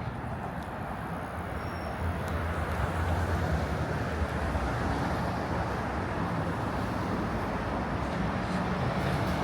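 City street traffic: vehicles passing with a steady wash of engine and tyre noise. A low engine drone comes in about two seconds in and grows slowly louder.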